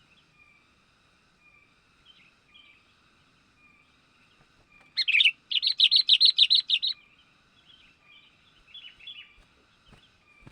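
Sooty-headed bulbul calling: a loud, rapid chattering run of about a dozen notes lasting about two seconds midway, followed by a few quieter calls. Faint, evenly repeating bird calls run in the background throughout.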